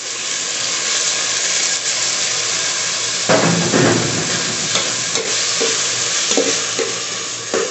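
Chopped tomatoes sizzling as they hit hot oil and fried onions in a metal pot, a steady hiss, with a steel ladle stirring and scraping the pot from about three seconds in.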